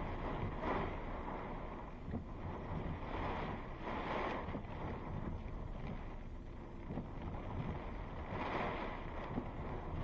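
Thunderstorm wind blowing hard, swelling and easing in gusts, with wind buffeting the microphone.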